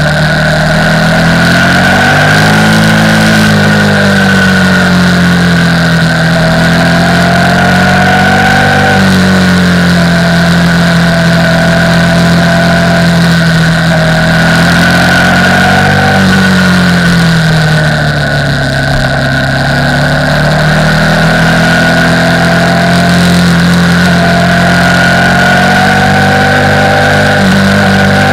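KTM 990 Supermoto R's LC8 V-twin engine running, its revs rising and falling slowly several times.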